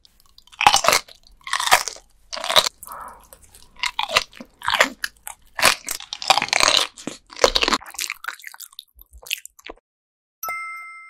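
Biting and chewing raw gizzard shad eaten bones and all: loud crunches, roughly one bite a second. Near the end a short chime rings and fades.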